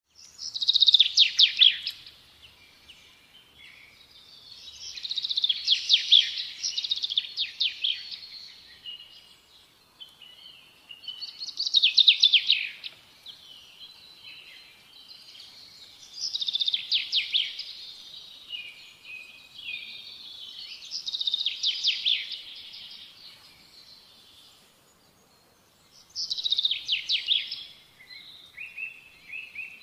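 Bird song: a rapid, high-pitched trilled phrase repeated about every five seconds, with quieter chirps between.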